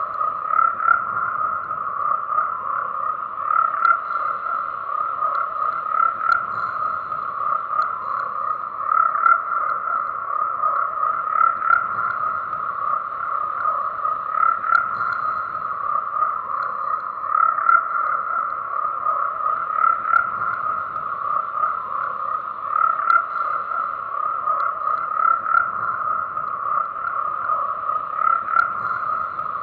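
Chorus of frogs croaking: a dense, unbroken mass of overlapping calls, swelling louder every couple of seconds.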